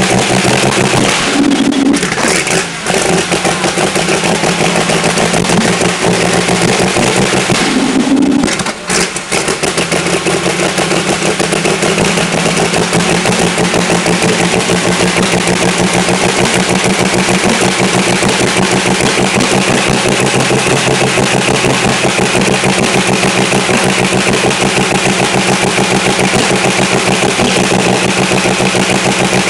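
Pulling tractor's diesel engine running loud and steady during warm-up, with rapid even firing pulses; the revs change briefly twice, about 2 and 8 seconds in.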